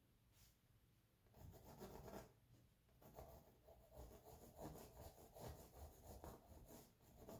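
Faint pencil strokes rubbing on canvas, in short bursts of sketching with brief pauses, starting a little over a second in.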